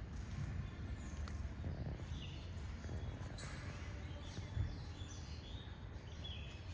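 Outdoor background noise with a steady low rumble and a few faint, short bird chirps scattered through it.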